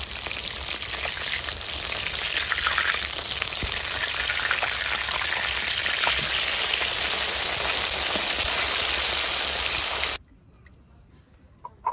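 Food frying in hot oil in a pan: a steady, loud sizzle with scattered small pops, cutting off abruptly about ten seconds in.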